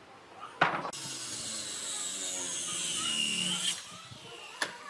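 A power tool working wood for about three seconds, its whine dropping in pitch as it bites into the cut and then stopping abruptly. A sharp knock comes just before it and another near the end.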